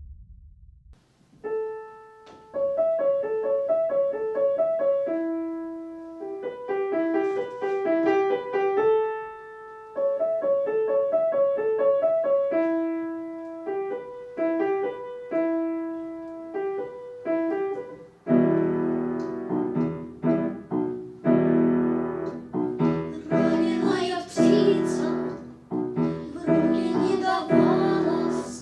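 Piano playing the introduction to a song: a slow melody of single notes at first, then, about two-thirds of the way through, fuller chords with lower notes filling out the accompaniment.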